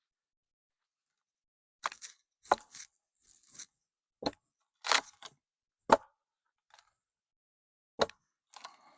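Irregular sharp knocks and cracks, about eight over several seconds, as a corral fence rail is worked loose from its post.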